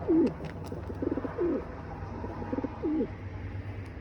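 A bird giving low calls three times, each a short buzzy note followed by a falling one, over a steady low hum.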